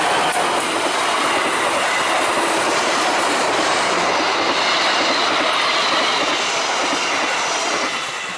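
Passenger coaches of a diesel-hauled train passing close at speed: a loud, steady noise of wheels on rails. It fades near the end as the last coaches go by.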